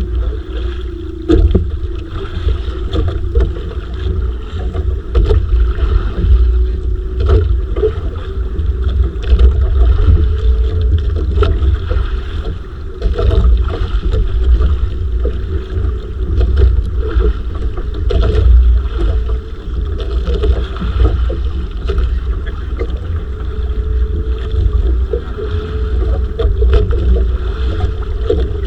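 Wind buffeting the microphone on a small fishing boat at sea, with water splashing and knocking against the hull over a steady wavering hum.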